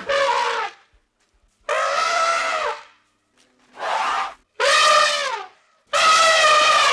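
An animal calling five times. Each call is a loud, brassy, trumpet-like cry about a second long, with short silences between.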